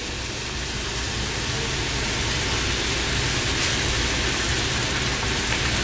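Thick coconut-masala gravy sizzling and bubbling in a pan on the stove, with raw chicken pieces in it. A steady hiss that grows a little louder over the first couple of seconds.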